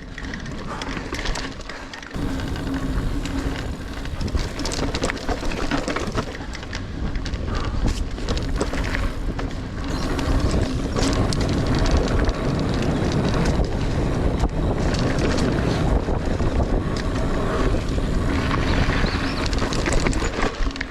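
Mountain bike riding on dirt singletrack: wind rushing over the camera microphone and tyres rolling, with frequent clicks and rattles from the bike over bumps. The noise gets louder about two seconds in.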